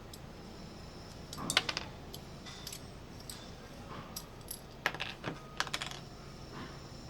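Scattered light clicks and clatter of metal parts and tools being handled, in a few short clusters, the loudest about a second and a half in.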